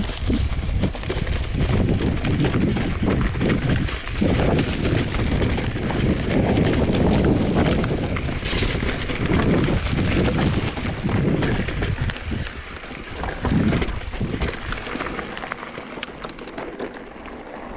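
Wind buffeting a camera microphone: a loud, gusting rumble that swells and eases, dying down near the end.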